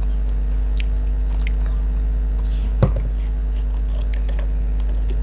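Close-up mouth sounds of someone chewing chicken and rice: a scatter of small wet clicks and lip smacks, with one louder smack a little before three seconds in, over a constant low hum.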